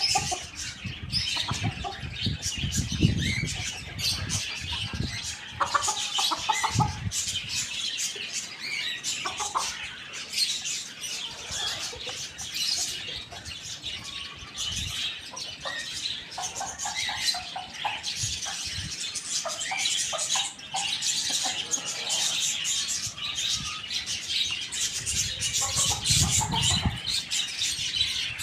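Chickens clucking over a constant din of many small birds chirping, with a couple of low rumbling bursts.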